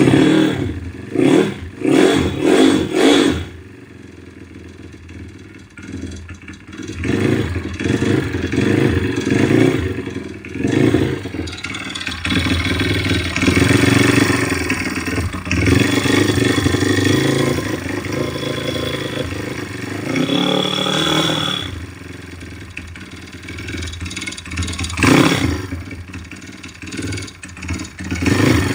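YX 160 single-cylinder four-stroke engine running, blipped several times, dropping to idle, then revved up and held before falling back, with another blip near the end. A wandering ringing knock sounds with it, which the owner cannot trace after adjusting the valves and finding only slight piston-pin play.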